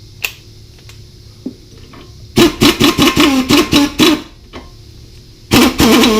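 Impact wrench hammering in two short bursts, tightening the end-link nut. The first burst lasts about two seconds and the second starts near the end, each a fast rattle over a wavering motor hum.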